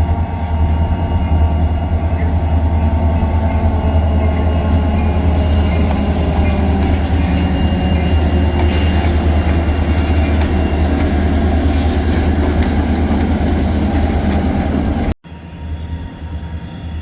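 Escanaba & Lake Superior freight train passing at close range: a loud, steady diesel drone with the rolling noise of wheels on rail. The sound cuts off abruptly about fifteen seconds in, leaving a much quieter rumble.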